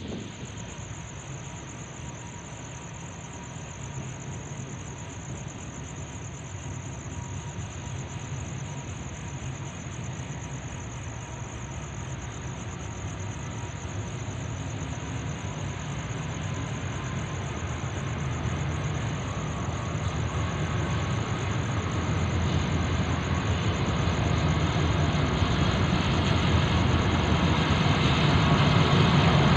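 Train running on rails: a low rumble growing steadily louder, with a steady high whine throughout.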